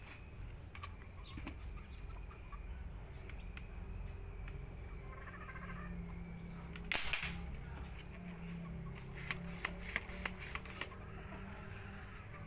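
A single short, sharp shot from a homemade PVC pipe gun about seven seconds in, followed a couple of seconds later by a quick cluster of sharp clicks.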